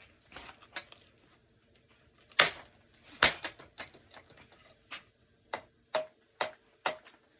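Wood baseball bat being shown off for its sound: a loud crack about two and a half seconds in, another knock under a second later, then about half a dozen lighter clicks at uneven intervals.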